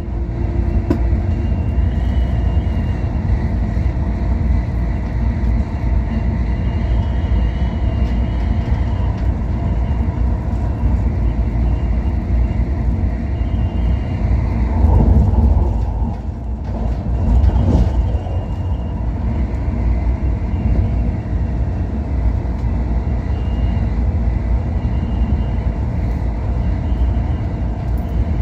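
MTR Airport Express train running at speed: a steady low rumble of wheels on rail with a faint, wavering high whine. It swells twice about halfway through.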